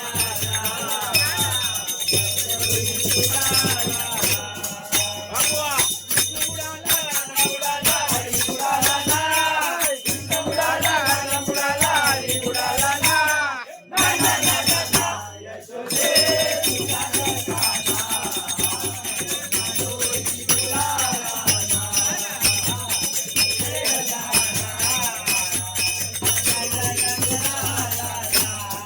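Women singing a Marathi bhajan together to jingling hand percussion, with a short break in the music about halfway through and a steady low hum underneath.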